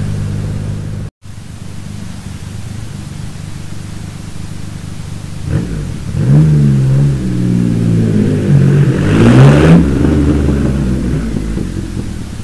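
Motorcycle engine running under way, at first steady, then from about halfway rising and falling in pitch several times as it revs up and shifts through gears, loudest near the three-quarter mark. Wind noise runs underneath, and the sound drops out for a split second about a second in.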